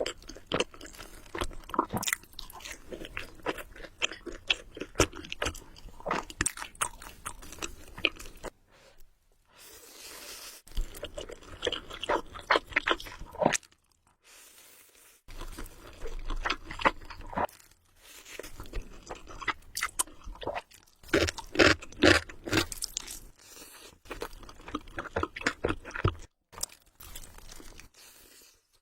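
Close-miked chewing of Buldak carbonara instant noodles: a steady stream of wet mouth clicks and smacks, broken by a few short pauses.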